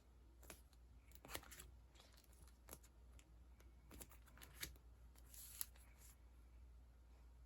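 Faint handling of sticker sheets and their packaging: scattered light clicks and short papery rustles.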